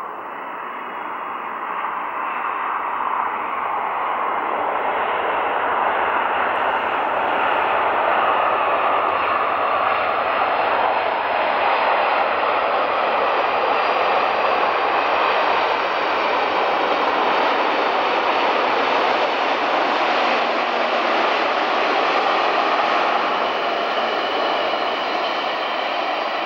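Jet airliner engines: a loud, broad rushing noise with a faint high whine. It builds over the first several seconds, holds steady, and eases a little near the end as the plane passes.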